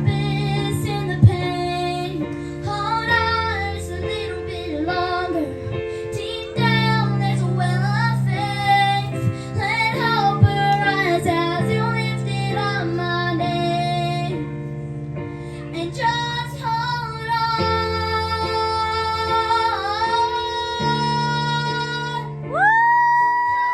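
Young female voices singing a wordless vocal melody over sustained accompaniment chords, ending on a long held note near the end.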